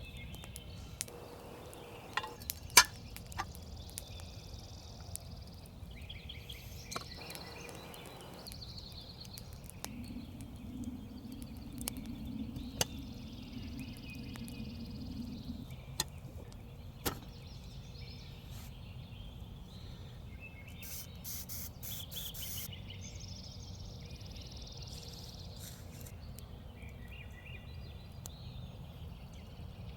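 Woodland ambience with birds calling now and then over a low steady rumble, and scattered sharp clicks and pops, the loudest about three seconds in.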